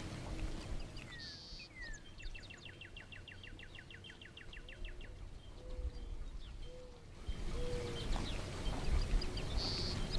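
Birds chirping. About two seconds in, one bird gives a rapid trill of evenly repeated high notes, about seven a second, lasting some three seconds. Scattered short calls and a steady background hiss run alongside it.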